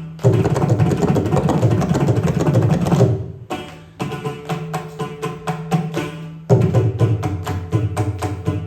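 Indian classical hand drums played live in fast, dense strokes over a steady low pitch. The playing is in rapid rolls, breaks off briefly a little after three seconds, picks up with sparser strokes, and grows dense again near the end.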